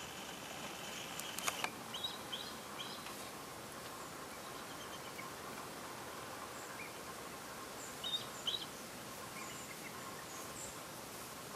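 Steady outdoor background hiss with short, high bird chirps in two clusters, about two seconds in and again around eight seconds, plus a few fainter ones later. A couple of sharp clicks come just over a second in.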